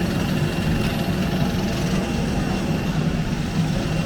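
Steady cabin noise inside a Boeing 737-800 after landing: a low, even hum with a faint high whine held on one note.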